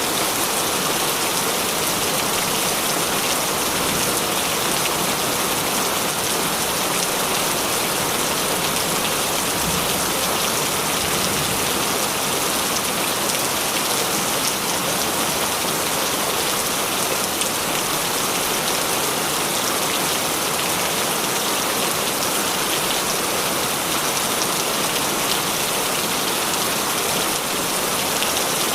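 Heavy rain falling steadily, a dense even patter with no pauses or thunder.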